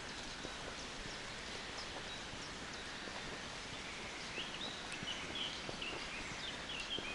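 Forest ambience: a steady hush with soft footsteps on the forest floor, and a songbird singing a quick run of short, high chirps in the second half.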